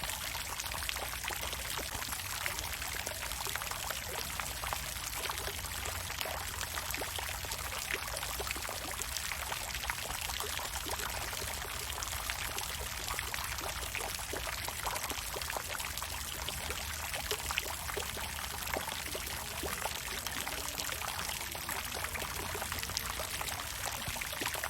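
Water fountain splashing: a steady rush of falling water peppered with many small splashes.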